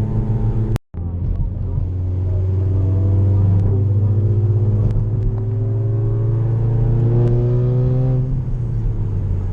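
Volkswagen GTI's engine heard from inside the car, pulling under load with its pitch rising slowly for several seconds, then easing off shortly before the end, over a steady low road drone. The sound cuts out completely for a split second about a second in.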